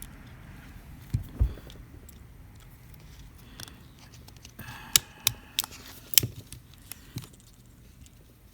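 Small sharp clicks and taps of metal tools against phone parts as a Samsung Galaxy S9 Plus is being taken apart and reassembled: two about a second in, then a quick run of them around five to six seconds.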